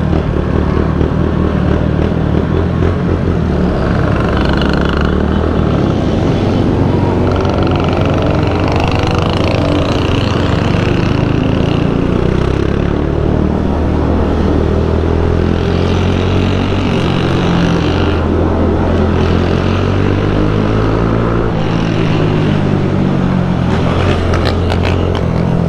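Motorcycles running in a group ride: a steady, loud engine drone from the rider's own bike and the others around it, with other motorcycles' engines rising and falling in pitch as they pass and pull ahead.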